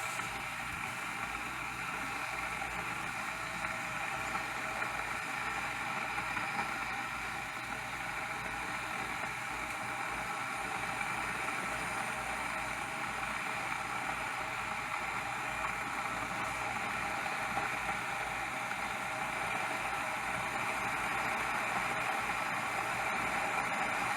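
MegaChef electric glass kettle heating water toward the boil, a steady rushing bubbling that grows a little louder near the end.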